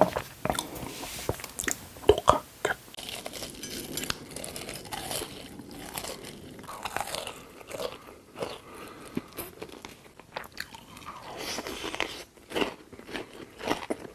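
Close-miked eating sounds: irregular crunching bites and chewing of food.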